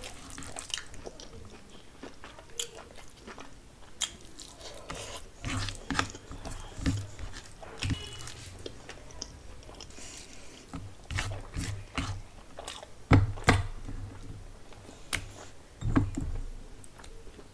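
Close-up eating sounds: a person chewing mouthfuls of rice and curry eaten by hand, with many short wet mouth clicks and smacks.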